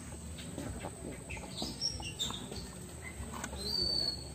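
Small birds chirping with short high calls, one held for about half a second near the end.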